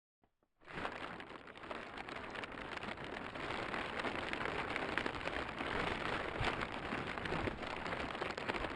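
Plastic crackling in a dense rush of tiny clicks, an ultrasonic recording played back three octaves lower. It starts about half a second in and holds at an even level.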